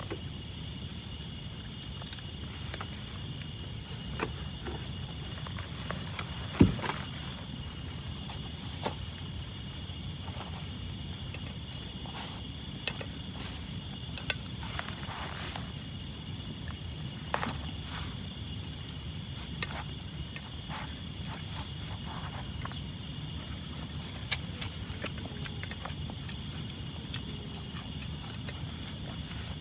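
Cricket chirping in a steady, even run of high chirps, with a low rumble underneath and occasional sharp clicks, one louder about six and a half seconds in.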